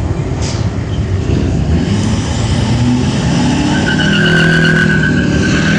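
Car engine revving up, climbing in pitch. From about four seconds in it is held at high revs while the tires squeal steadily, as in a burnout attempt.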